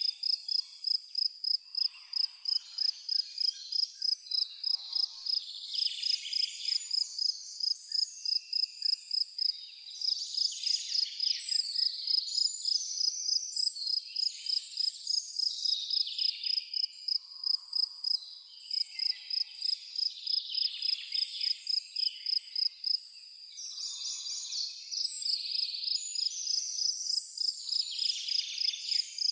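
Forest ambience: a cricket chirping in a steady, even rhythm of about three high chirps a second, pausing briefly near the end, with several birds singing over it.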